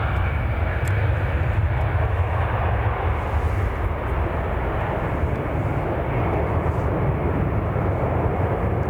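Airbus A320 airliner's jet engines at takeoff thrust as it climbs away just after rotation: a steady, deep rumble.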